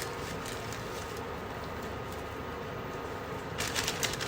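Meat cooking in an oiled pan with a steady hiss, and a short run of spatula scrapes and clicks against the pan near the end.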